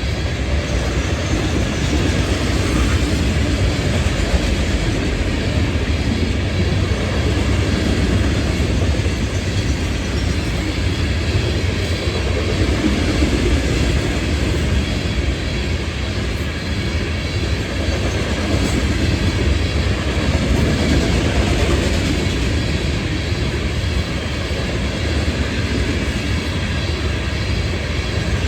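A train passing, its cars rolling steadily over the rails with a continuous rumble.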